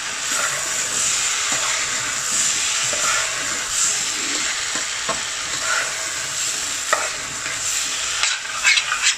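Rice, lentils, vegetables and chicken sizzling as they fry without water in a stainless steel saucepan, stirred with a metal spoon that scrapes against the pan a few times. The mix is starting to stick to the pan bottom.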